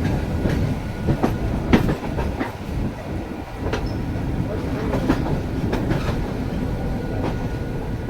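Mumbai suburban local train (electric multiple unit) running: a steady low rumble with irregular sharp clicks and clanks of the wheels over the rail joints.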